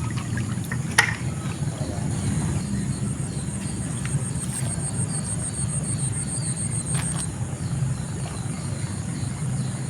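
A steady low rush of outdoor noise, with an insect's high trill pulsing about ten times a second that stops and starts. A sharp knock comes about a second in, and a lighter one near seven seconds.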